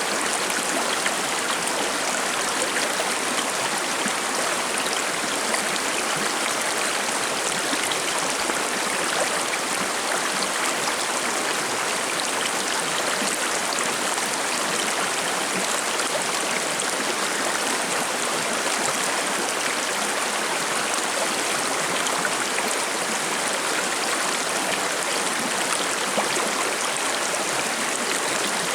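Shallow forest stream flowing and babbling steadily over stones, an even rushing and trickling of water without let-up.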